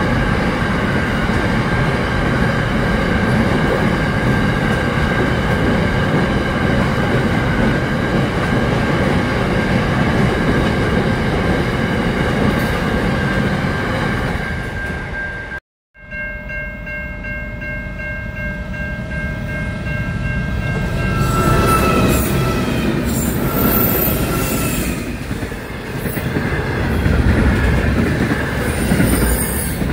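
Freight train wagons rolling past close by: a steady rumble with high, steady ringing tones over it. The sound drops out for a moment about halfway through, then returns with more freight wagons rolling past.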